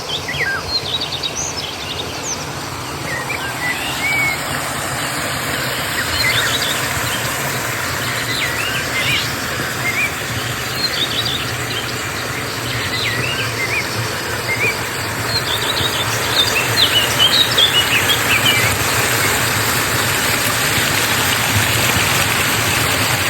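Steady rush of flowing river water with birds chirping repeatedly over it; the bird calls thin out near the end.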